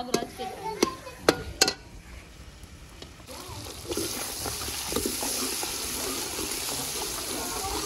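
Beef and spices frying in a pot: a spoon stirring and knocking against the pot four times in the first two seconds, then a steady sizzle from about four seconds in.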